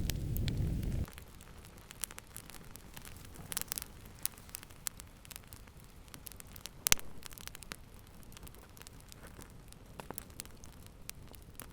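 Wood fire crackling with scattered sharp pops and clicks, one much louder pop about seven seconds in. A deep low rumble of the flames cuts off suddenly about a second in.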